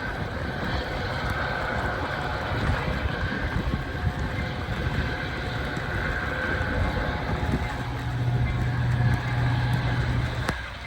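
Metra commuter train pulling out of a station: a steady rumble of the diesel locomotive and cars rolling on the rails, with a few sharp clicks. A low, steady engine drone grows stronger about eight seconds in.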